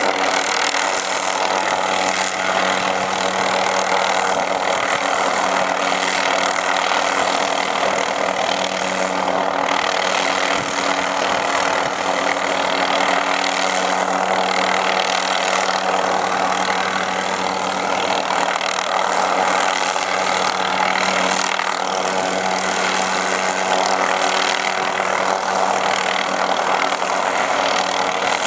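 Helicopter running steadily, its engine and rotor giving a constant, even drone with a steady low hum while it pulls a tag rope along a powerline route.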